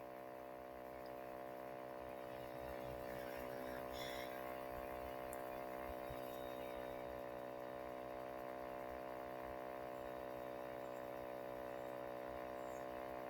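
Faint, steady electrical hum with many even overtones, holding unchanged with no rhythm or pitch change.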